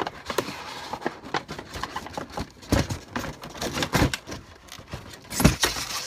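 Hands handling a plastic action figure and its packaging: irregular clicks, taps and rustles, with a louder knock about five and a half seconds in.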